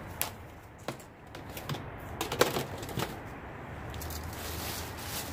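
Clicks and knocks of items being handled and set down, irregular and a few to the second, the loudest about two and a half seconds in.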